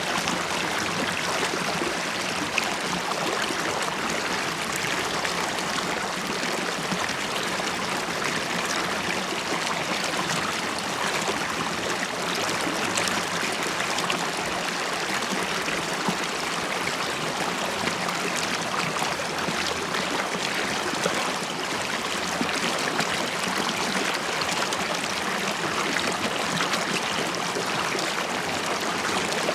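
A river stream running and bubbling, a steady rush of water with small gurgles.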